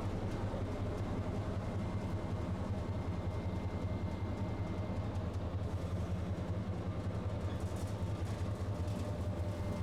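Tosaden streetcar giving off a steady low hum and rumble, with a faint thin high tone held over it.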